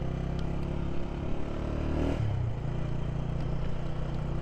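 Honda CG 125's air-cooled single-cylinder four-stroke engine running steadily while riding, with a brief change in the engine note about two seconds in.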